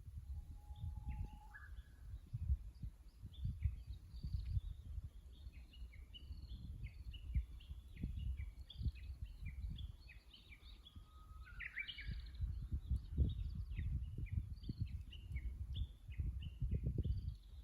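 Japanese bush warbler (uguisu) singing twice: a long held whistle that breaks into a quick rising phrase, the "hoo-hokekyo" song, the second time about ten seconds in. Many short chirps of other small birds go on throughout over a steady low rumble.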